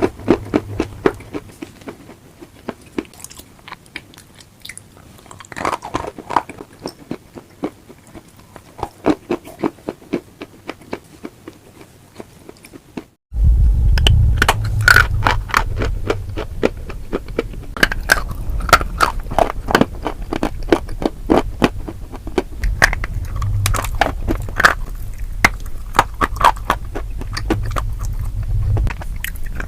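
Close-miked chewing and biting of very crunchy food: rapid crackling crunches. About thirteen seconds in the sound breaks off for a moment, then comes back louder over a low hum.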